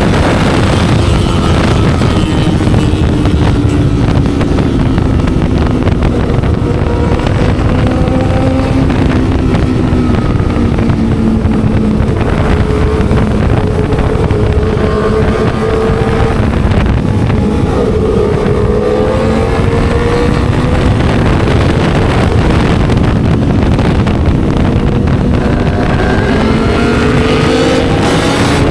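Motorcycle engine through a loud aftermarket racing exhaust, heard on the move; the revs rise and fall several times as the rider works the throttle through the gears. Wind buffets the microphone.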